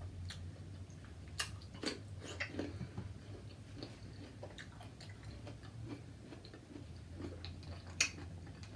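Quiet chewing with scattered small mouth clicks, a sharper click about eight seconds in, over a faint steady low hum.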